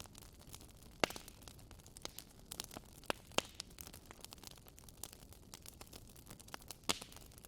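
Wood fire crackling in a fireplace: irregular sharp snaps over a soft hiss, with a few louder pops about a second in, around three seconds in and near the end.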